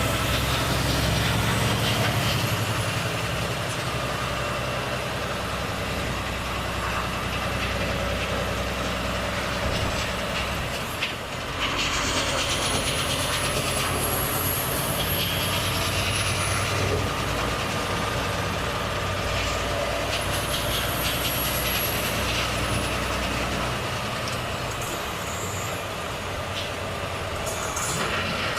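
Volvo FH truck engine running steadily on the road, with a stretch of hissing noise partway through and again later.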